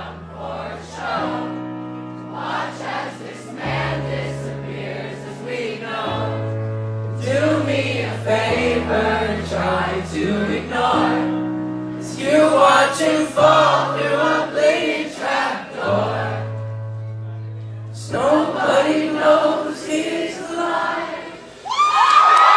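Live band music with singing from many voices, over held bass notes that change every second or two.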